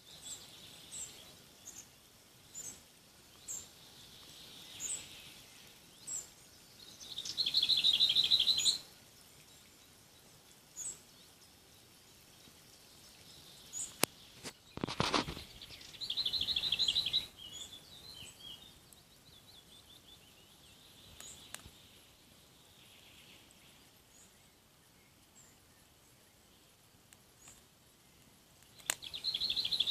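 Wild birds calling and singing: short high chirps repeat about once a second, broken by three louder rapid trilled phrases about 8 seconds in, 16 seconds in and at the very end. A brief rushing burst comes about 15 seconds in.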